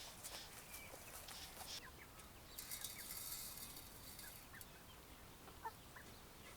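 Faint farmyard poultry calls: short, scattered clucks, with a brief hiss from about two and a half to four and a half seconds in.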